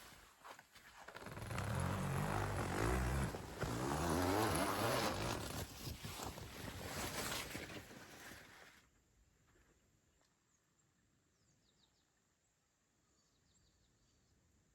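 A motor vehicle's engine, loud for several seconds with its pitch stepping and shifting, that cuts off abruptly about nine seconds in, leaving only faint outdoor background.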